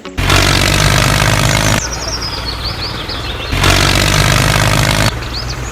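Small engine running, louder in two bursts of about a second and a half each that start and stop abruptly. Short high chirps sound in the quieter stretch between the bursts.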